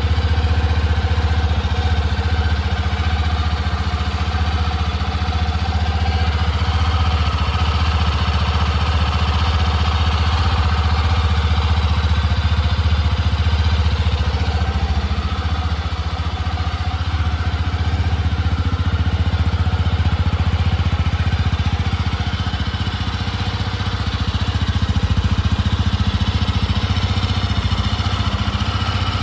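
Yamaha Touring Serow 250's air-cooled single-cylinder engine idling steadily.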